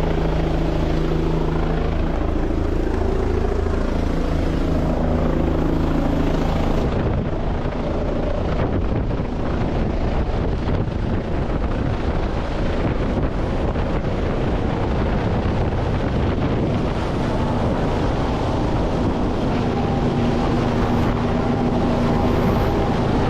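Helicopter engine and rotor running steadily while it hovers, with heavy wind buffeting on the microphone. About seven seconds in the sound turns rougher and noisier.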